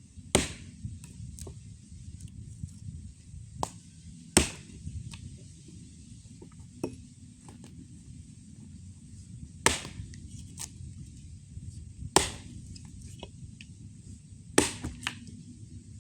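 Axe chopping wood: about five heavy, sharp strikes a few seconds apart, with lighter knocks in between.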